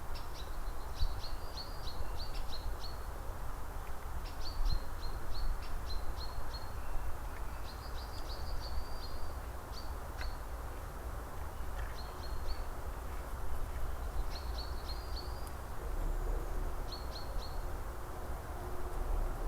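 A small songbird singing short phrases of quick, high chirps, about eight phrases a couple of seconds apart, over a steady rushing background noise.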